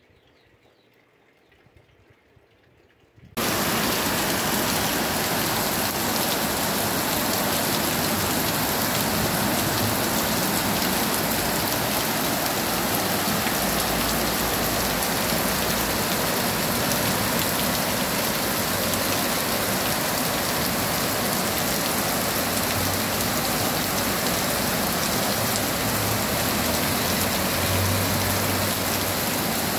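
Faint dripping at first. About three seconds in, a sudden cut to a loud, steady hiss of heavy rain pouring down on a street running with floodwater.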